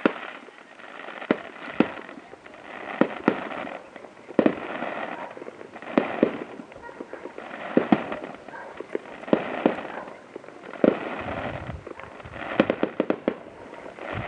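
Fireworks display going off: sharp bangs every second or so, bunched into quick clusters near the end, with swells of noise between them.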